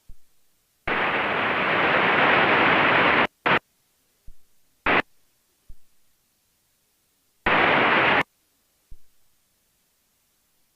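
Aircraft radio static: separate bursts of hiss cutting in and out, the longest lasting about two and a half seconds from about a second in, with short bursts and faint clicks between and another burst near the end.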